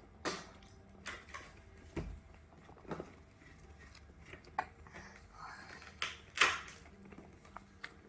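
Scattered short clicks, taps and rustles of a small child eating and handling food, about seven in all, the loudest about six and a half seconds in.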